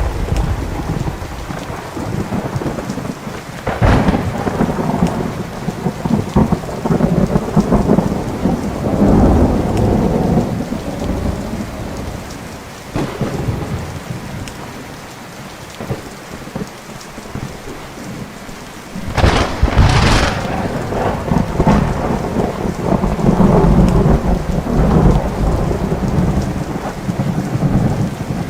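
Thunderstorm: thunder rumbling over steady rain, with a sharp crack about four seconds in and a louder double crack about two-thirds of the way through, each followed by long rolling rumbles.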